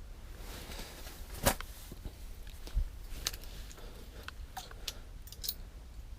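Scattered clicks and taps of rod, reel and clothing being handled while fighting a fish through the ice, with one sharp click about a second and a half in and a low thump a little after, over a faint low rumble.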